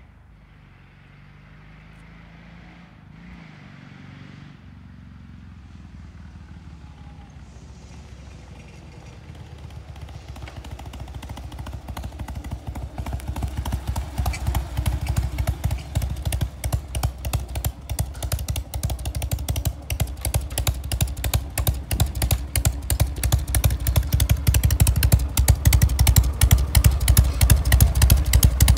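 1987 Harley-Davidson Heritage Softail's Evolution V-twin engine coming closer, growing steadily louder, then running close by with a fast, even beat of exhaust pulses.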